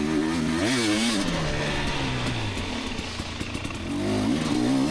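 Two-stroke dirt bike engine pulling up a rutted, rooty hill climb at low speed. The revs rise and fall with the throttle: a sharp rev about a second in, an easing-off in the middle, then picking up again near the end.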